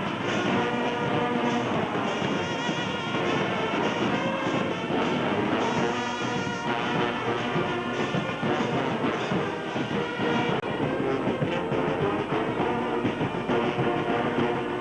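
Music with brass instruments playing held, overlapping notes.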